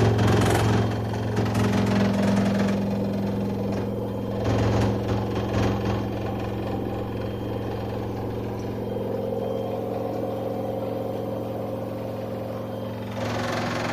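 LG 10.2 kg Direct Drive washer-dryer spinning: a steady low hum with louder noisy surges now and then, and a higher whine joining about two-thirds of the way through. It is an abnormal spin noise that began suddenly on a machine less than two months old, its cause unknown to the owner.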